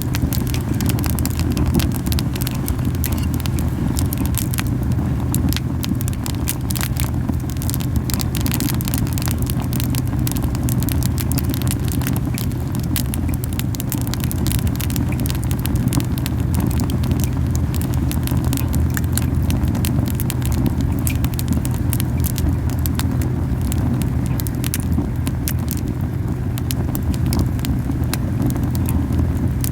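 Camellia wood burning hot in an open fire: a steady low puffing rumble of strong flames, with frequent sharp crackles and pops of the burning wood.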